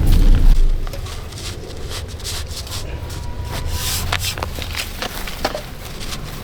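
A low rumble that stops about half a second in, then scattered knocks, clicks and rustles from bamboo poles being handled and fitted together.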